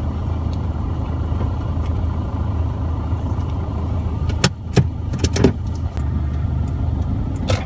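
Toyota Fortuner's engine idling, a steady low hum heard from inside the cabin as the SUV starts to pull away slowly. A few short sharp clicks come about four and a half to five and a half seconds in and again near the end.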